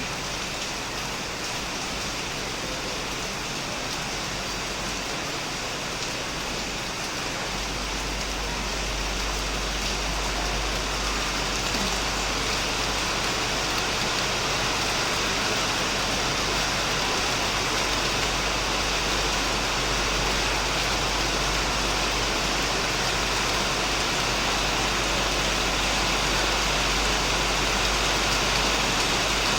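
Heavy rain falling steadily on a shed, a dense, even patter. About seven seconds in, a low rumble underneath strengthens and the rain grows a little louder, then holds steady.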